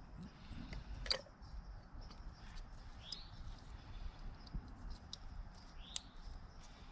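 Faint clicks and small metallic taps of hand tools at work in an engine bay, with one sharper click about a second in and two short rising squeaks about three and six seconds in.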